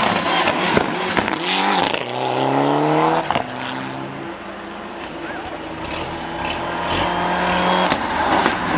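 Rally car engine at full throttle, the note climbing steadily before a gear change about three seconds in. The engine then runs on at a steadier pitch, dropping in level and building up again toward the end.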